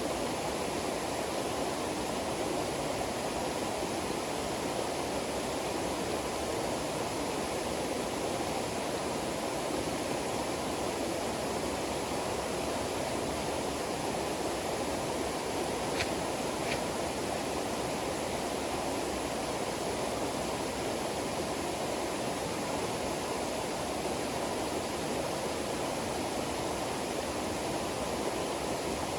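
Steady rushing water, even and unbroken, with two faint ticks about two-thirds of the way through.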